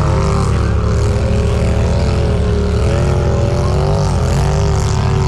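Side-by-side UTV engine and drivetrain running under way. Its pitch rises and falls with the throttle over a steady low rumble.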